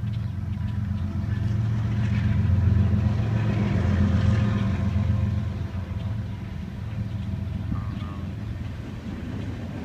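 Diesel freight locomotive passing: a steady low engine rumble that swells to its loudest about three seconds in and then eases off.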